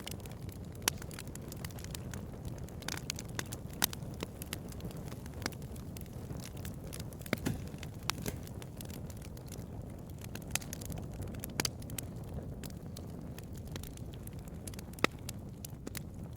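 Wood bonfire crackling: a steady low rumble of the burning fire with sharp pops and snaps at irregular intervals. The loudest pops come about a second in, near four seconds and about fifteen seconds in.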